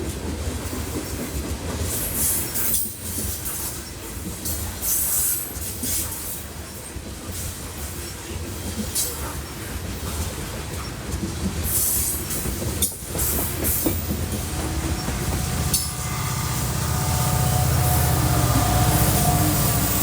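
Train cars rolling past on the rails, with wheel rumble, irregular clanks and brief high wheel squeals. In the last few seconds a steady low engine drone builds, typical of a locomotive drawing near.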